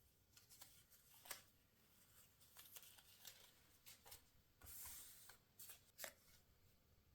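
Faint rustling and crinkling of paper being handled, with scattered light taps and clicks and a longer rustle about five seconds in.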